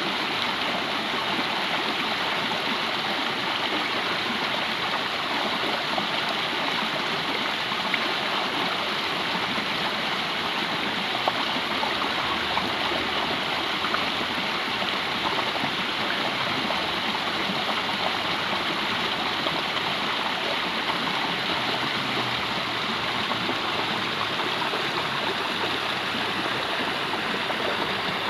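Stream water flowing and gurgling over rocks, a steady rushing with no let-up.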